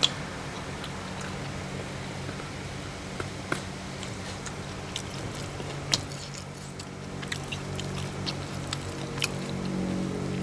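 Close-up eating sounds: chewing and lip-smacking on raw vegetables and jackfruit salad, with scattered sharp mouth clicks, over a steady low hum.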